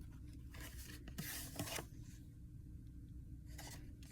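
Faint rustling of paper book pages being handled, in a few short brushes, the longest about a second in.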